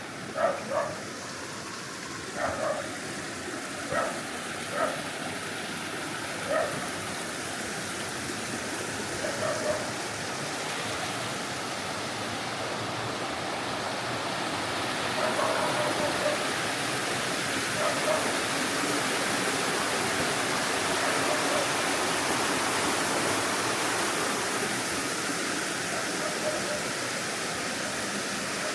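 Stream water rushing steadily, growing louder from about ten seconds in. A few short sharp calls sound over it in the first ten seconds and a couple more later.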